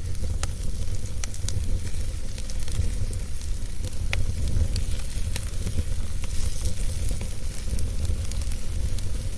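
Wood fire burning in a fireplace: a steady low rumble of the flames with a soft hiss, and scattered sharp crackles and pops from the burning logs.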